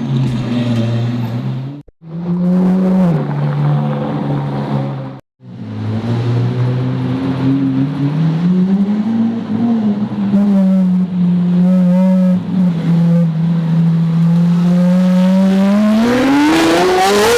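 Sports car engine running at a steady speed, broken by two abrupt cuts in the first six seconds; near the end it revs up, the pitch climbing steeply.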